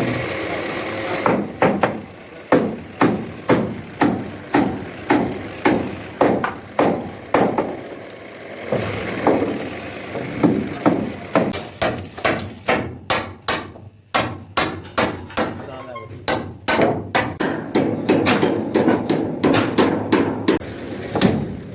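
Repeated hand-hammer blows, about two a second, pausing briefly about eight seconds in and then coming quicker, around three a second.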